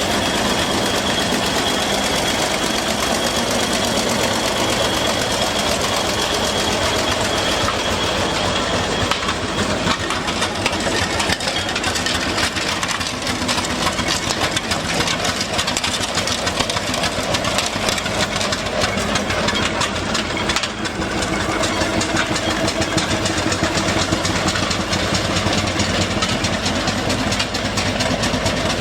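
Miniature live-steam traction engines running, a steady fast mechanical clatter of engine beats. A thin steady high tone sounds for roughly the first nine seconds.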